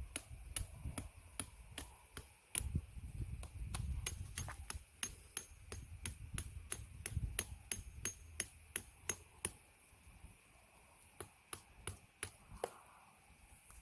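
A blade chopping a wooden stick in quick repeated strokes, about two or three a second, thinning to a few scattered strokes near the end.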